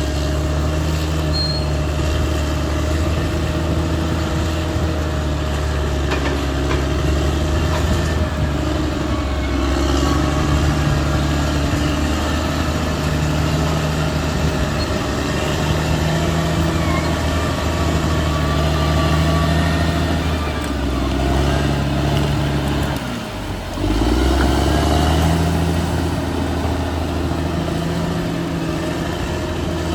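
Caterpillar D6R XL bulldozer's diesel engine working steadily under load, easing off briefly about three-quarters of the way through and then coming back up louder.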